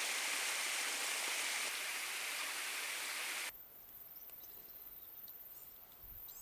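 Steady rushing of running water, which cuts off suddenly about three and a half seconds in. What follows is a much quieter forest background with a few faint, short high chirps.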